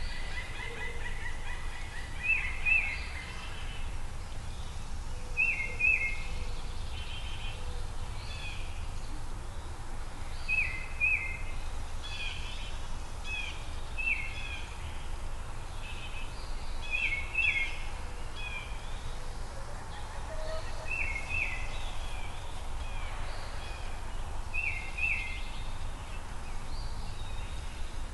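A bird calling in short chirps, mostly in pairs, repeated every few seconds, over a steady low rumble.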